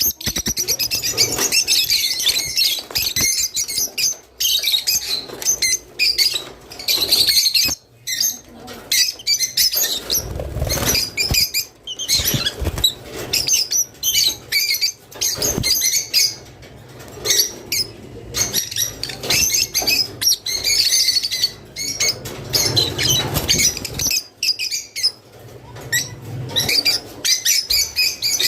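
A group of peach-faced (rosy-faced) lovebirds chattering without a break: many overlapping high chirps and squawks, with a few brief deeper rustles in between.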